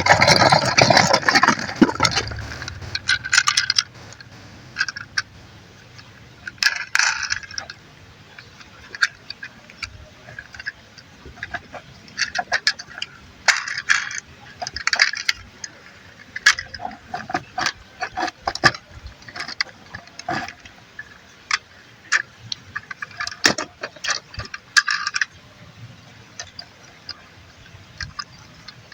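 Small hard plastic toy parts clicking, snapping and rattling as a Transformers-style robot toy is handled and folded into a car. The clicks come at irregular intervals. A denser, louder clatter fills the first two seconds.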